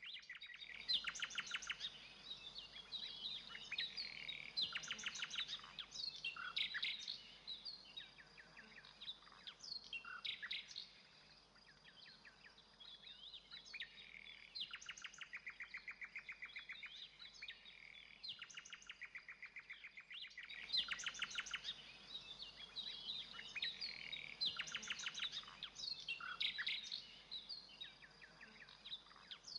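Nightingale singing: varied phrases of rapid repeated notes and clear whistles, with short pauses between phrases. A faint steady high tone runs underneath.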